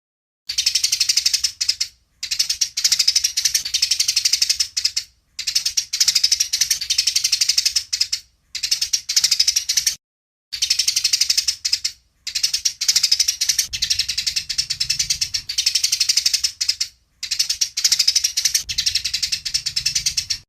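Eurasian tree sparrows giving rapid, harsh fighting chatter, in bursts of two to three seconds broken by short gaps.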